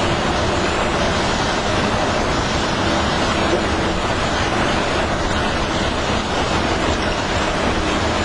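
Steady, loud running noise of a passenger train rolling into a station, an even rumble and hiss with no separate knocks or horn.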